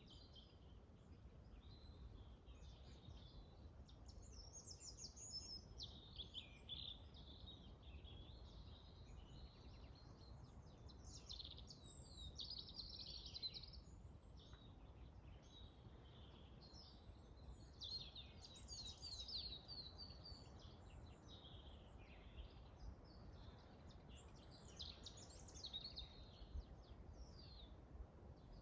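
Several forest songbirds singing and chirping faintly, with overlapping high-pitched phrases, over a faint low rumble.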